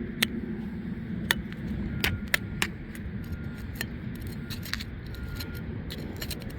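Sharp, irregular clicks and scrapes of a metal digging knife working in the soil around a buried aluminium can, over a low rumble of wind on the microphone.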